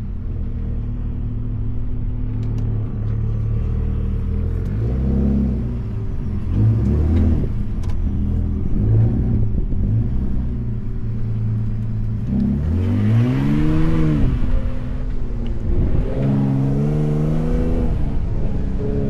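Ford F-150 Raptor 37's twin-turbo V6 engine working over sand, revving up and easing off again and again, with its biggest climb and drop about two-thirds of the way through.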